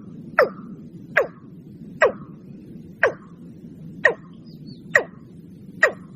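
Watercock calling: a steady run of seven short, sharp notes, each sweeping quickly upward in pitch, about one a second, over a faint low hum.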